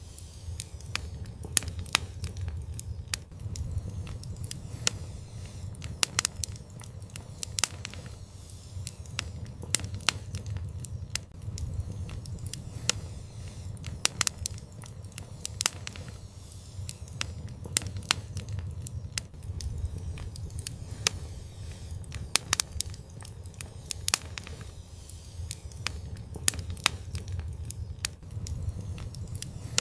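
Wood fire burning in an outdoor fireplace: irregular sharp crackles and pops over a steady low rumble of the flames.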